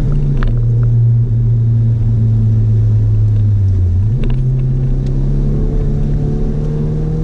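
Audi S3's 1.8-litre turbocharged four-cylinder engine under way, heard from inside the cabin. The engine note steps down in pitch at the start and sinks slowly, then jumps back up about four seconds in and holds steady.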